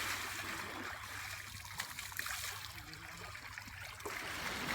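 River water trickling and splashing, a steady rushing hiss with a few small splashes, growing louder near the end.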